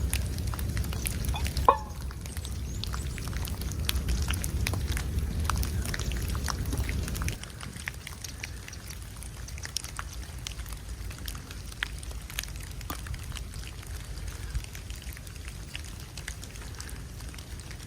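Blizzard wind rumbling on the microphone, which cuts off suddenly about seven seconds in. Scattered small ticks and crackles run throughout, with a brief squeak about two seconds in.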